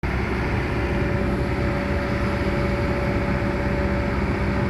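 Heavy diesel engine running steadily, a constant drone with a steady hum.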